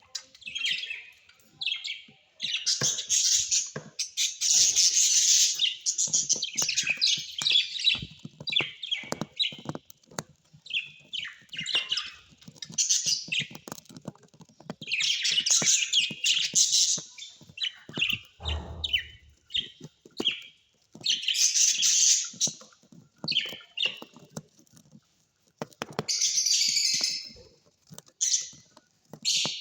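Small pet parrots chirping and chattering in dense bursts of a second or two, with short gaps between them and many sharp clicks. There is one brief low thud about two-thirds of the way through.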